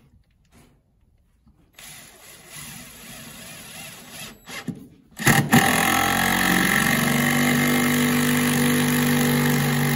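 A small engine starts about five seconds in and settles into a steady run, its pitch lifting slightly and then holding. Before it there are faint handling knocks and rustles.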